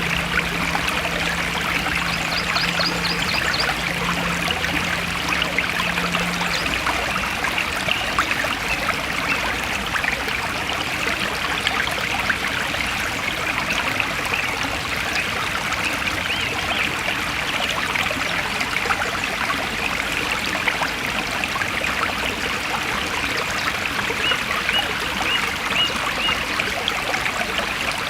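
Forest stream flowing and trickling steadily, with an even rushing sound. A faint low hum lies under it for the first several seconds, and a few faint, quick high chirps come near the end.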